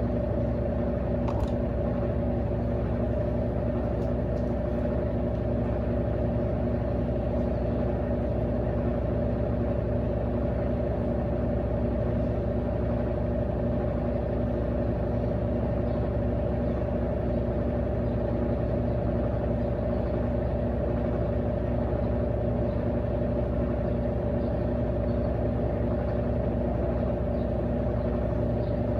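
Electrolux LAC16 washing machine, fitted with a 1/4 hp WEG motor from an LT13B, running with a steady motor hum that does not break or reverse. The hum starts just after the water drains, which fits the spin cycle.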